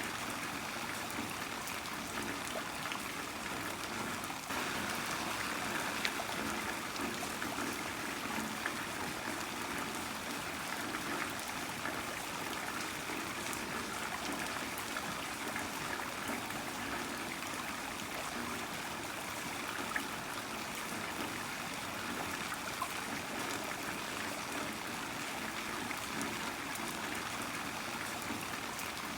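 Heavy rain falling steadily: an even rushing hiss of water, flecked with fine ticks of individual drops.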